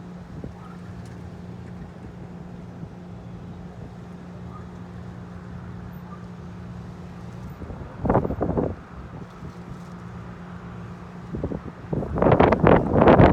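Steady low mechanical hum of running machinery, with wind buffeting the microphone in a short gust about eight seconds in and again, louder, near the end.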